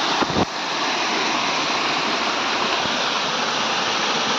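Waterfall rushing steadily, with a brief low thump about half a second in.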